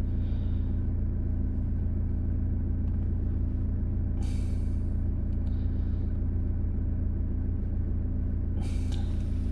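Car engine idling steadily with a constant low hum.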